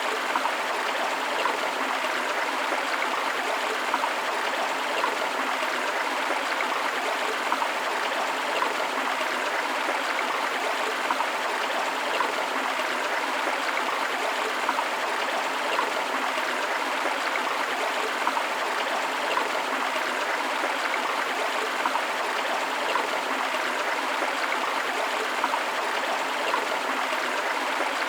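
A river flowing over rocks with a small waterfall: a steady, even rush of water.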